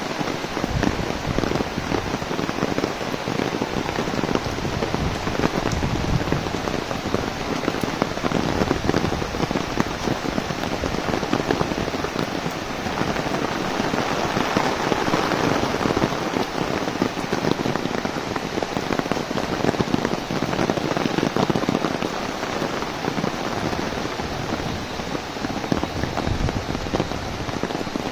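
Heavy rain falling on an open umbrella: a dense, steady hiss of drops with many fine individual taps.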